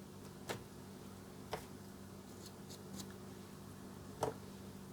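Four faint, short clicks and taps, spread a second or so apart, from handling a paintbrush and paint while dabbing gold paint onto foam, over a steady low hum.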